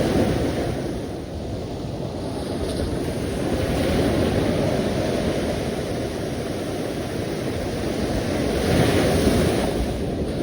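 Sea waves rolling in and washing ashore as a steady rushing surf, swelling about four seconds in and again near the end.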